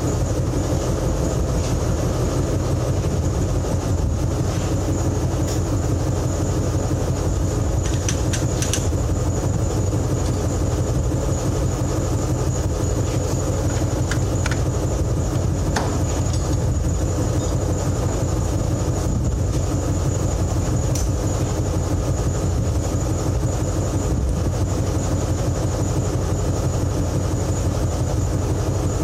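A steady engine drone with a thin high whine over it, broken by a few light clicks about 8, 14 and 16 seconds in.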